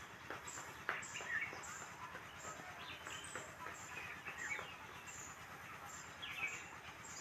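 Faint birdsong: a short high chirp repeated about twice a second over scattered lower chirps and calls.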